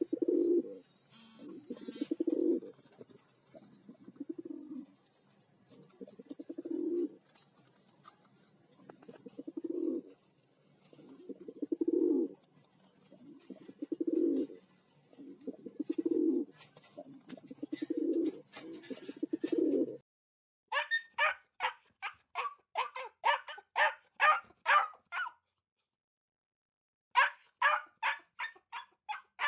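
Pigeon cooing, a low coo about every two seconds. About twenty seconds in it gives way to a dog barking in quick runs of about four barks a second, with a short pause between the runs.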